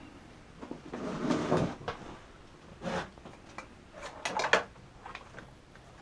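Small objects being handled and rummaged through: a short scraping rustle about a second in, then scattered clicks and knocks, with a quick cluster of them a little past four seconds.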